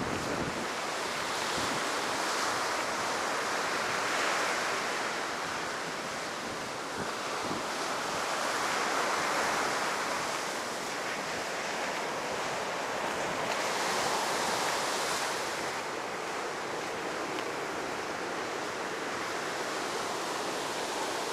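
Heavy ocean surf breaking and washing up a sandy beach, surging louder about every five seconds; the waves are high in the wake of a typhoon.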